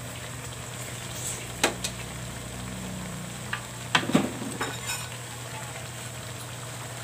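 Chicken pieces sizzling in their juices in a nonstick pan, a steady frying hiss broken by a few sharp pops, the loudest about four seconds in.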